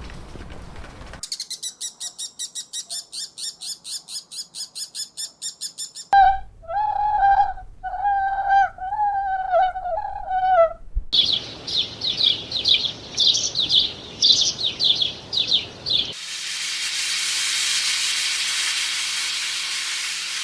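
A run of different bird calls cut one after another: a fast, even train of high chirps, then a lower wavering call, then more rapid high chirps. A steady hiss takes over near the end.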